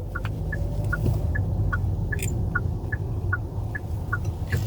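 Car turn signal ticking at about four clicks a second, the clicks alternating slightly in pitch, over the steady low rumble of a moving car's cabin.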